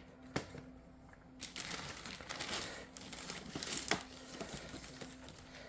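Packaging crinkling as it is handled, with a couple of sharp clicks, one near the start and one about four seconds in.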